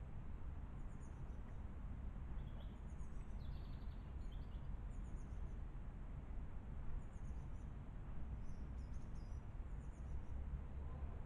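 Small garden birds giving short, high chirps and calls in scattered bursts over a steady low background rumble.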